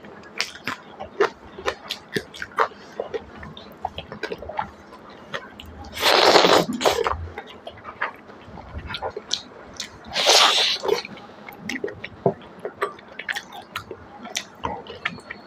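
Close-miked eating: wet chewing and lip smacks of pork trotter and rice, with many short clicks throughout. About six seconds in, and again about ten seconds in, comes a loud breathy rush of about a second.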